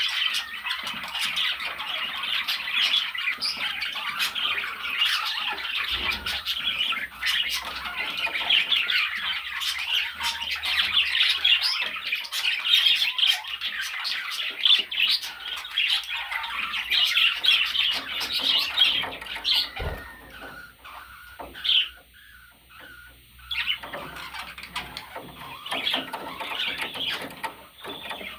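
Pet budgerigars chattering: a dense, rapid stream of chirps, warbles and squawks, easing off for a few seconds about two-thirds of the way through before picking up again.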